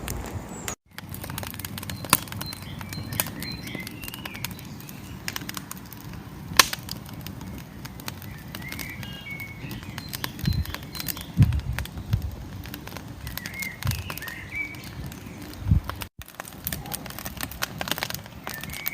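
Wood fire crackling in a fire bowl: a steady run of small sharp crackles with a few louder pops. Small birds chirp now and then in the background.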